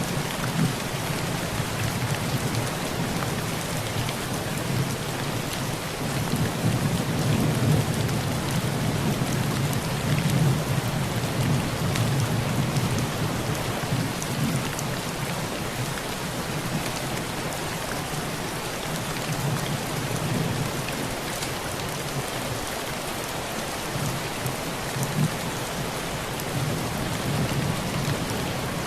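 Heavy rain pouring onto a tin roof, with many sharp drop ticks on the metal, over a low rumble of thunder that swells about a quarter of the way in and again near the end.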